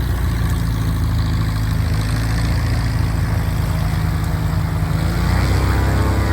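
Light propeller aircraft's piston engine running steadily at low power, its note shifting about five seconds in.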